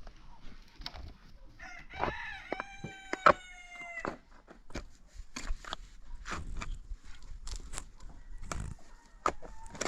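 A rooster crowing once, starting about one and a half seconds in and lasting about two seconds, over scattered clicks and knocks.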